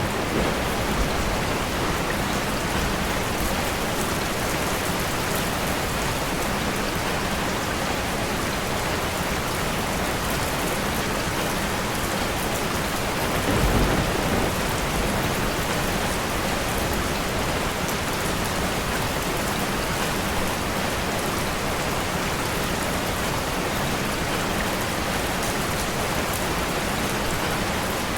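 Steady rain falling, an even rushing patter, with a short louder low rumble about halfway through.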